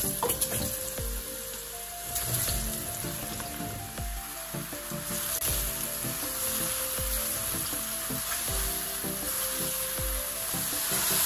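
Button mushrooms sizzling steadily as they fry in hot oil over high heat in a nonstick wok, being turned with a silicone spatula. Soft background music with a steady beat plays underneath.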